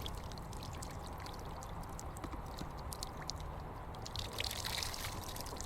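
Water dripping and trickling in small, irregular splashes, with a denser run of drips about four seconds in.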